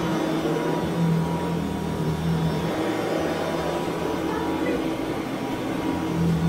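Royal Model 880 upright vacuum cleaner running: a steady motor whir over a hiss of rushing air, its low hum growing stronger and weaker every second or two.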